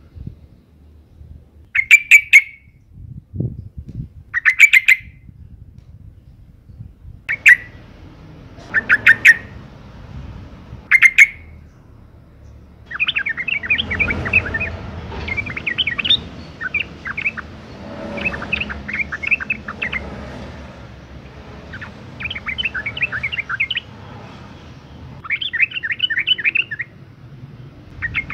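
Yellow-vented bulbul calls, presented as a female calling to males: short bursts of quick chirps every couple of seconds, then from about halfway a denser run of chattering phrases.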